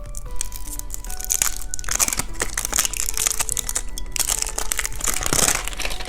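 Plastic candy packaging crinkling and crackling as it is handled and opened, over light background music.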